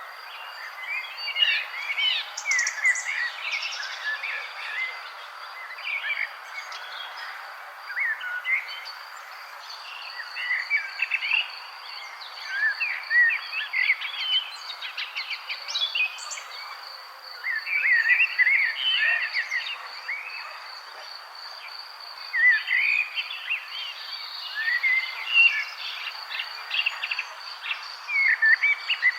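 Songbirds singing in bursts of quick, warbling chirps every few seconds, over a steady, high, fast-pulsing insect trill.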